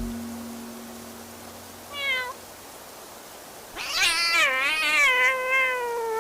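A cat meowing: a short meow falling in pitch about two seconds in, then a long, louder meow that wavers up and down in pitch, starting past the middle and still going at the end.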